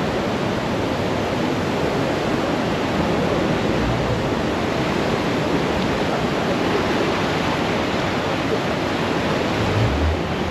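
Steady rushing of tidal rapids as seawater pours through a narrow gap between cliffs. A low rumble joins near the end.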